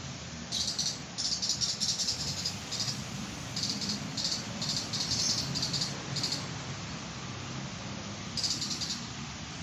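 A high-pitched insect trill in repeated short bursts, over a steady low background noise.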